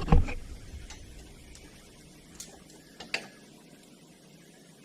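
A knock at the start, then a few faint, scattered metal clicks from bolts and tools being handled during the ATV's front-hub teardown.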